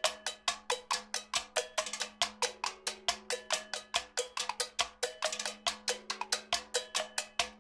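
Soundtrack of rapid, evenly spaced metallic percussion strikes, like a cowbell, about five a second, with short pitched notes ringing over a steady low hum.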